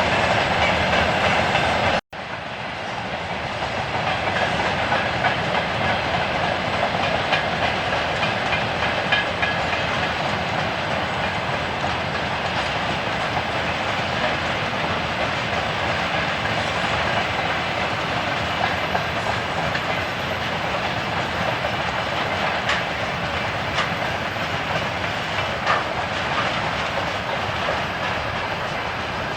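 Freight train rolling past, a steady rumble and clatter of wagon wheels with scattered clicks over the rail joints. The sound cuts out briefly about two seconds in, then comes back and stays steady.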